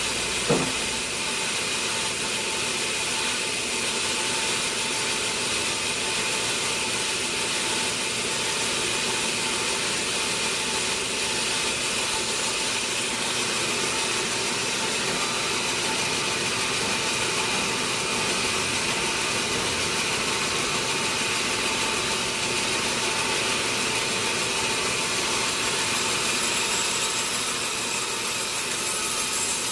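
Sawmill saw running with a steady, unchanging mechanical whine over dense noise, with a brief gliding squeal about half a second in.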